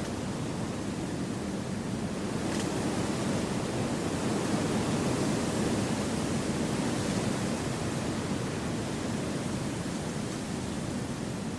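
Wind blowing through forest trees: a steady, soft rush that swells gently in the middle and then eases.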